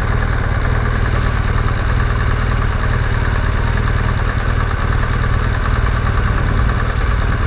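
BMW GS Adventure motorcycle engine idling steadily, a low even rumble while the bike waits in traffic.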